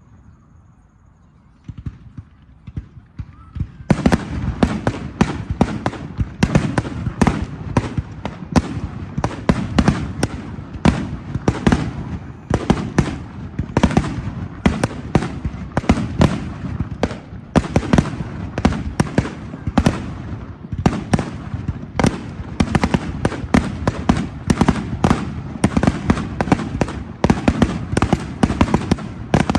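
Fireworks going off in a rapid barrage. The first bangs come about two seconds in, and from about four seconds in they run together into a dense stream of many sharp bangs a second.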